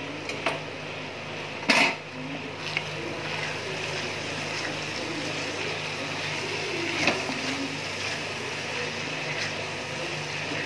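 Mutton tikka masala frying in a pot over a steady low hum, with a few clicks and knocks from a cooking spoon against the pot, the loudest about two seconds in.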